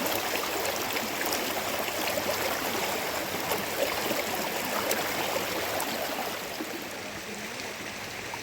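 Steady rushing water, an even hiss with many small scattered ticks, easing slightly near the end.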